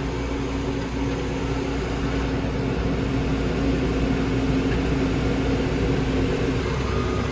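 Combine harvester running steadily in the field, its engine and threshing gear making a constant drone with a steady low hum, heard from inside the cab.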